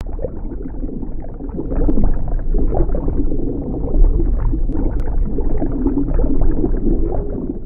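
Underwater bubbles rising in a dense stream, heard as a muffled, continuous bubbling and gurgling over a low rumble.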